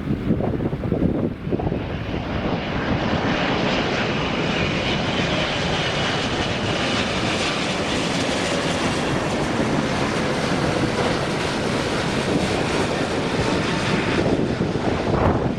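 Boeing 777-200ER twin-engine jet airliner passing on its landing approach, a broad rushing engine sound building from about two seconds in and easing near the end, with wind on the microphone.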